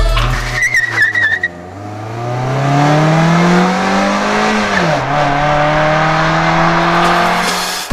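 A sports car accelerating hard: the engine revs rise steadily, drop sharply at a gear change about five seconds in, then climb again. A brief squeal, likely the tires, comes in the first second or two.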